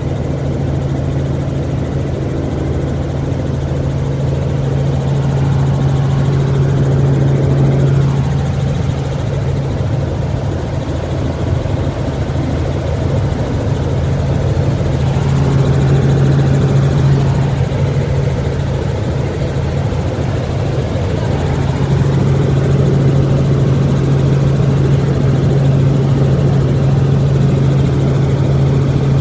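Helicopter in flight heard from inside the cabin: a steady, loud low drone of the rotor and engine, with a strong low hum underneath.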